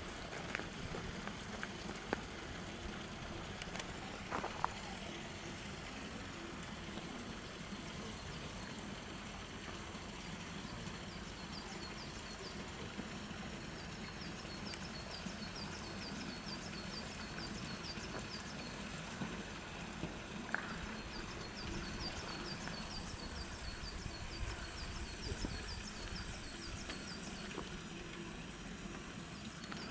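Steady outdoor background noise with a low hum, and from about eleven seconds in a small bird repeating a quick high chirp, two or three a second, in runs.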